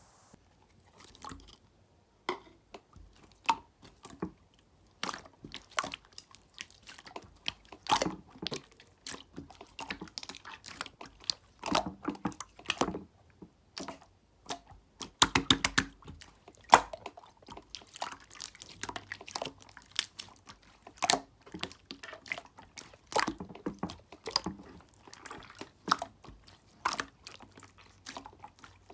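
Clear slime being squeezed and pressed by hand, making irregular wet clicks and pops, with a quick run of rapid clicks about fifteen seconds in.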